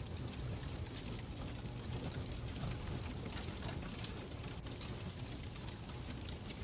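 Fireplace fire crackling: scattered, irregular small pops and snaps over a steady low rumble.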